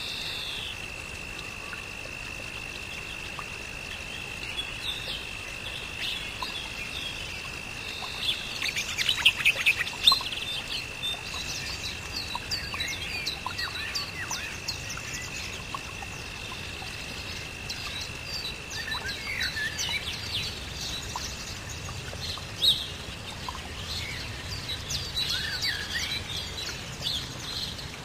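Birds chirping and calling, with many short high chirps that are busiest about eight to ten seconds in, over a steady high tone that stops about two-thirds of the way through.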